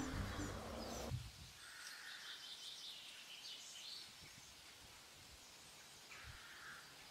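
Background music cutting off about a second in, then faint birds chirping with a few short calls.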